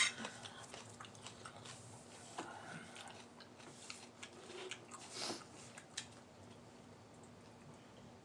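Close-up eating sounds: someone biting and chewing crunchy deep-fried food, with scattered crisp crunches and a sharp click right at the start. The crunching dies away after about six seconds.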